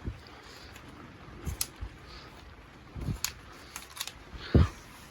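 A few scattered knocks and soft thumps as potted tomato plants are handled and moved, the loudest about four and a half seconds in.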